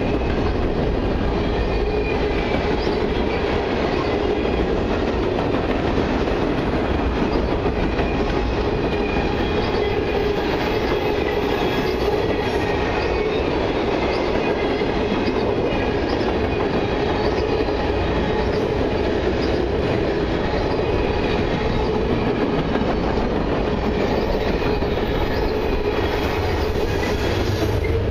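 Freight cars of a long mixed freight train rolling past at close range: a steady loud rumble of steel wheels on the rails, with regular clicks as the wheelsets cross rail joints.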